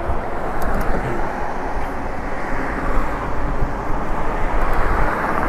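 Steady rushing of wind on the microphone and tyre noise from an e-bike being ridden along, with a heavy low rumble and no clear tones.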